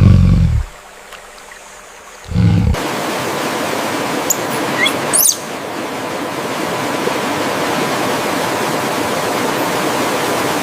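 Two short, deep rumbles, then a sudden switch to the steady rush of flowing water, like a stream or waterfall. About two seconds after the switch a bird gives a few short, rising high chirps.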